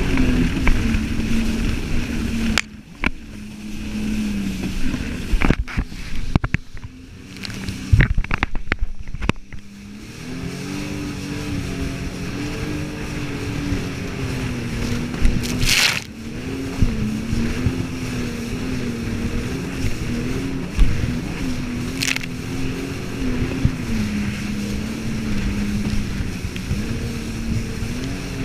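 Jet ski engine running, its pitch wavering up and down with the throttle. It drops lower and quieter for several seconds with a few knocks, then rises again and runs on. A brief rush of noise comes about halfway through.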